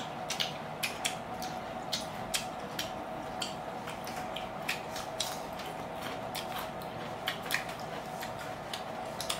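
Close-up chewing of raw cucumber: irregular crisp crunches and clicks, a few a second, over a faint steady hum.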